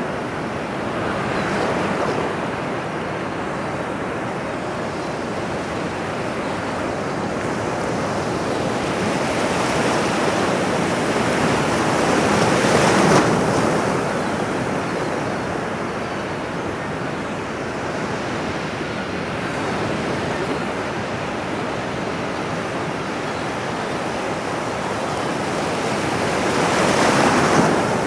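Ocean surf: a steady wash of breaking waves, swelling and fading slowly as larger waves break, about 13 seconds and near the end.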